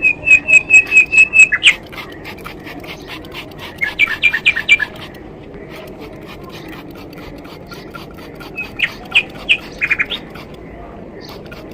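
A bird calling: a quick run of about eight evenly spaced high notes at the start, then two more short bursts of chirps, one about four seconds in and one near nine seconds in.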